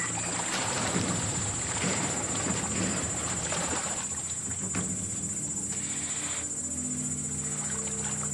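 Steady high-pitched chirring of insects, with a rough, noisy scuffle from about half a second to four seconds in, and low sustained music tones coming in near the end.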